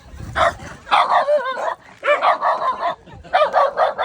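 Shiba Inu dog yipping and barking in a rapid run of short, high calls, several a second, some running together with a wavering pitch.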